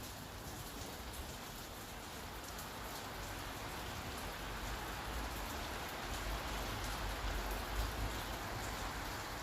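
Steady rain falling, an even hiss with fine drop patter. A low rumble swells about halfway through and eases near the end.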